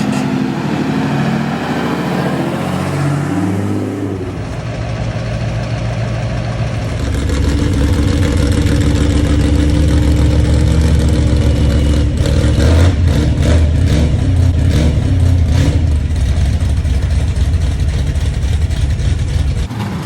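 Large truck engine running. Its pitch rises and falls over the first few seconds, then it settles into a louder, deeper steady drone from about seven seconds in, with a run of clicks or rattles in the middle.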